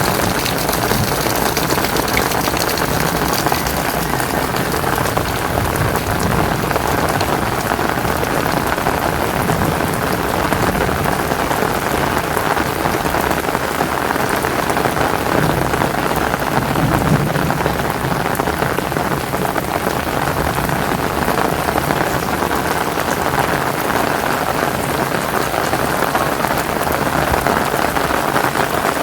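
Heavy rain falling steadily, pouring down on surfaces in a dense, even hiss.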